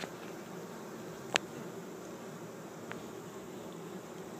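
Steady buzzing of a honeybee swarm crowding into the entrance of an empty hive body. A single sharp click about a second and a half in, and a fainter one a little later.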